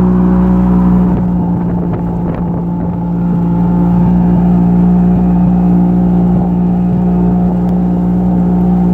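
Vehicle engine running at a steady, held speed: one constant droning note that does not change.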